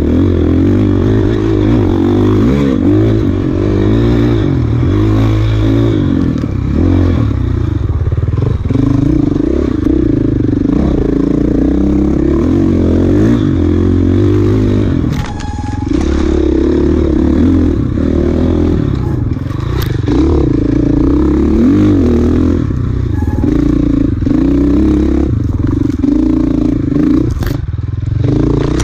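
Off-road dirt bike engine revving up and down continuously as it is ridden hard on a trail, with occasional clattering knocks.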